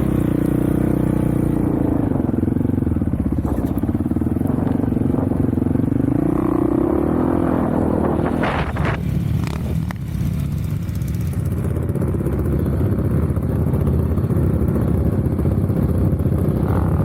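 Off-road vehicle engine running under way, its note rising and falling with the throttle. About eight seconds in it drops off with a few knocks and clatter, then settles back to a steady run.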